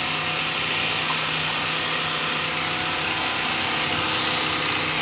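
Steady rushing noise of heavy water, unbroken, with a faint low hum under it.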